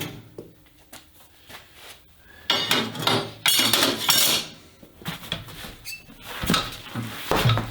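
Metal clinking and clattering as tools and wheel hardware are handled at a tire machine, with rougher scraping noise in the middle and again near the end.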